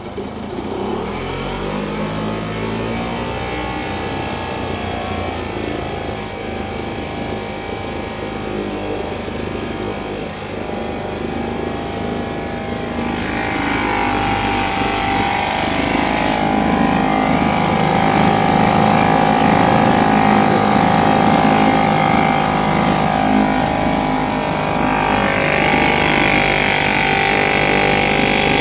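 British Seagull Forty Plus outboard motor, a single-cylinder two-stroke, running smoothly. About thirteen seconds in it picks up speed and runs louder. Its pitch eases down slightly near the end.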